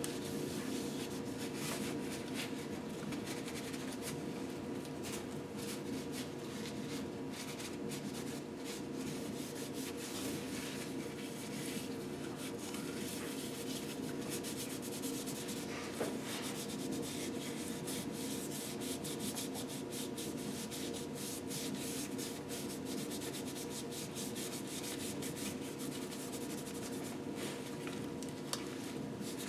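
Continuous fine scratching and rubbing of hand-cleaning a piston's ring grooves, working the goo and carbon out with a pick.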